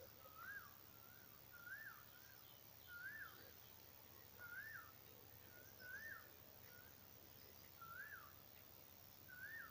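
A bird calling over and over, a short note that rises then falls in pitch, repeated about seven times roughly every one and a half seconds, faint against quiet rural background noise.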